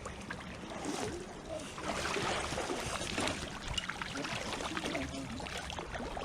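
Steady rush of a flowing river with wind rumbling on the microphone, and faint voices mixed in.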